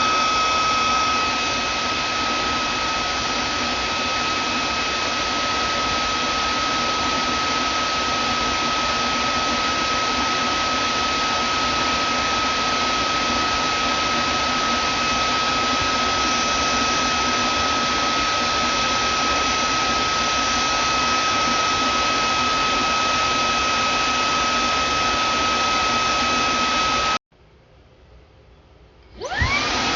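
Vacuum cleaner motor running steadily, a rushing air noise with a constant high whine. Near the end it cuts off abruptly, and after about two seconds it starts again, the whine rising in pitch as the motor spins back up.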